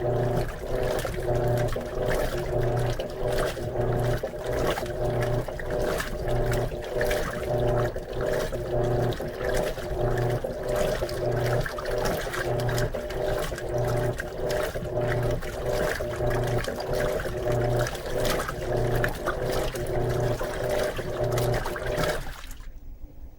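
Electrolux LM13Q top-load washer agitating its jeans load during the rinse: the motor hums in an even back-and-forth rhythm, a stroke a little under every second, with water sloshing in the tub. The agitation stops suddenly near the end.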